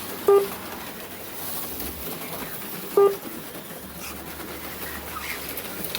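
Two short electronic beeps from a slot car race lap-counting system, about three seconds apart, each marking a car crossing the lap counter. Under them runs a steady hiss from the HO slot cars circling the track.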